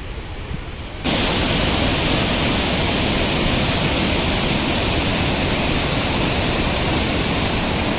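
Waterfall: a loud, steady rush of falling water, cutting in abruptly about a second in over a low rumble.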